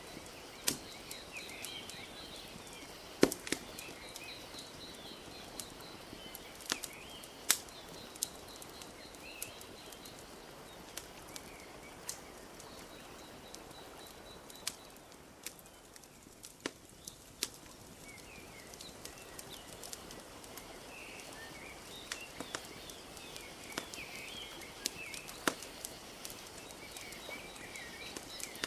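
Wood fire crackling, with sharp pops at irregular intervals and a few louder snaps, over a steady soft wash of lapping lake water. High chirps come and go in the background.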